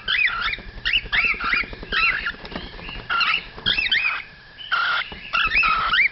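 Cockatiel chicks calling over and over in short up-and-down chirps, several a second, in bunches with brief pauses between: the food-begging calls of hungry chicks.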